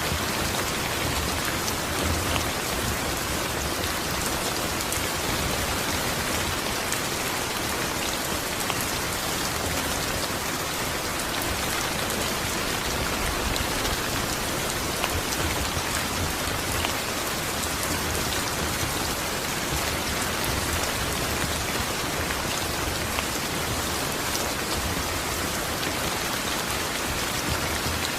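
Steady rain falling, with a constant hiss and scattered drops pattering on a surface.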